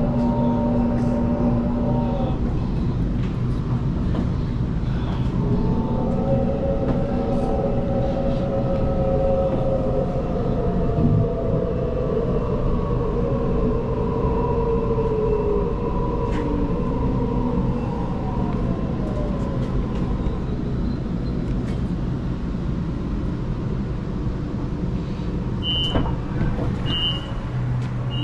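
Electric suburban train's motors whining over a steady rumble as it slows into a station, the whine sliding down in pitch as it brakes. Near the end come a few short high beeps, the door warning.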